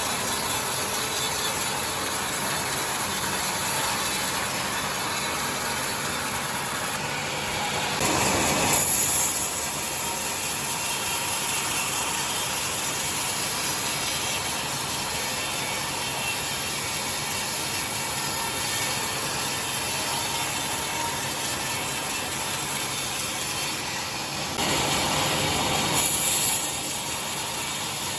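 Sawmill saw running steadily while ripping timber into boards, with two louder stretches of a couple of seconds each: one about eight seconds in and one near the end.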